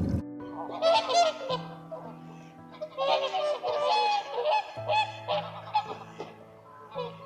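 Geese honking repeatedly in short bursts, over background music with long, held low notes.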